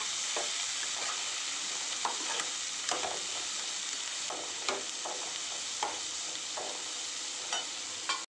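Sliced onions and tomatoes sizzling steadily in hot oil in a kadai, with a perforated spatula scraping and knocking against the pan at irregular moments as the mix is stirred.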